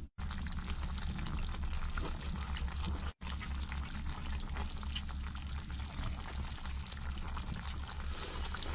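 Hot chicken broth being poured from the stew pot over a bowl of rice, a steady liquid splashing over a constant low hum. The sound drops out for an instant about three seconds in.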